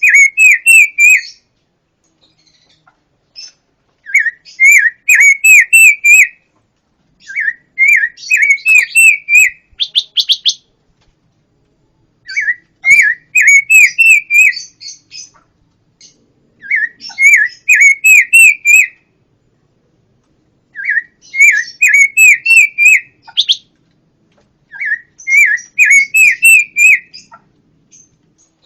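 A pancawarna songbird singing in loud phrases of about two seconds, each a fast run of repeated rising whistled notes, with a phrase roughly every four seconds.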